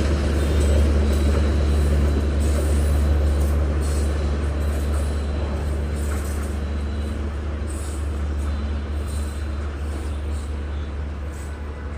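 Train running on the rails: a steady low drone with rumbling and faint clicking from the wheels, slowly fading as it moves away.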